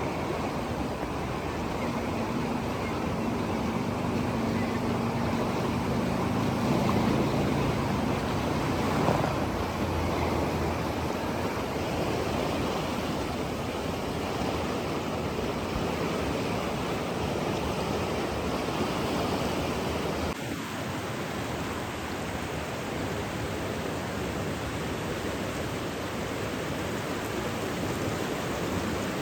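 Steady rushing water noise, like surf or a fast stream. A faint low hum sits under it for several seconds near the start, and the level drops slightly about twenty seconds in.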